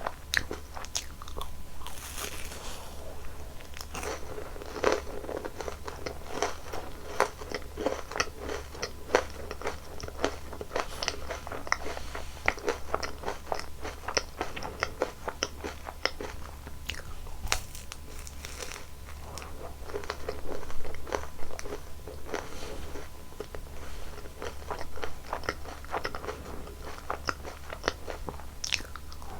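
Close-miked eating of Baskin-Robbins ice cream desserts, with biting, crunching and chewing mouth sounds coming as many quick, irregular clicks. A low steady hum runs underneath.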